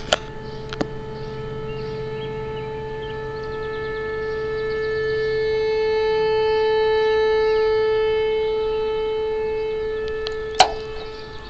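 Weather radio alarm tone for the weekly test of the station's alarm device: one steady held pitch that swells louder through the middle and eases off near the end. A couple of sharp clicks come near the start and one comes near the end.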